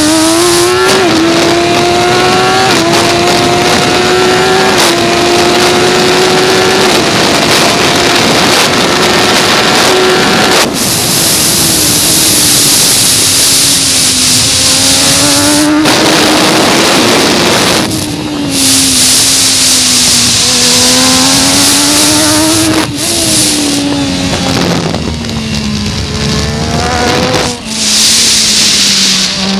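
MV Agusta 675 inline three-cylinder race engine at full racing pace. The pitch climbs in gear with quick upshifts over the first ten seconds. The throttle closes sharply about a third of the way in, and the revs then fall and rise again through the corners. A loud rushing hiss runs over it at speed.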